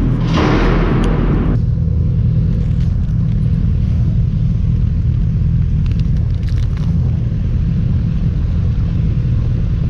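Vehicle on the move, most likely a motorbike: a steady engine drone with a heavy wind rumble on the microphone, and a louder rush of wind for about the first second and a half.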